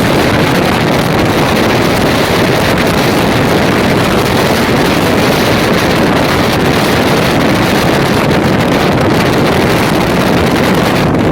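Loud, steady rushing noise of a moving train, with wind buffeting the microphone.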